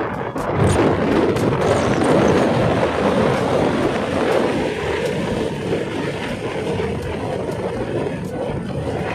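Steady rushing wind and road noise from a moving motorcycle, a little louder from about a second in to about three seconds in.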